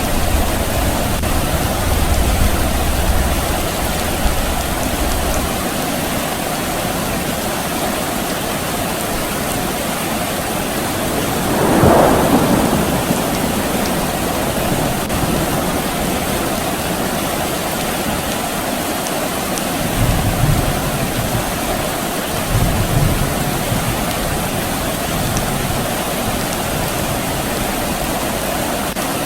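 Steady rain falling, with low rumbles of distant thunder during the first few seconds and again about two-thirds of the way through. A brief swell of sound rises and fades about twelve seconds in.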